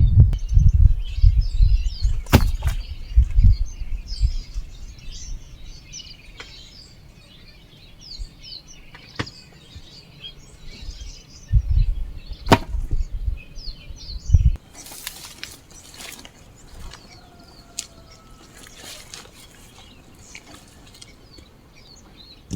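Garden clearing work: dull thuds in bursts and a few sharp knocks of a tool striking plant stems and soil, with birds chirping throughout.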